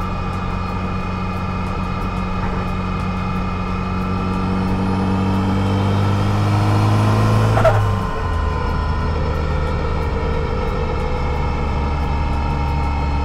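Turbocharged SR20DET four-cylinder engine in a Datsun 240Z, heard from inside the cabin under way: it pulls steadily, rising in pitch, then drops to a lower steady pitch about eight seconds in as the driver shifts up, with a brief high squeal just before the change.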